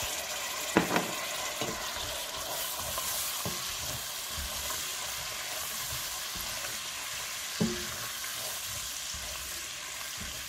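Sea snails and tomato paste frying in hot oil in a pot, with a steady sizzle as they are stirred with a slotted spatula. A few short knocks of the spatula against the pot: two about a second in, one near eight seconds.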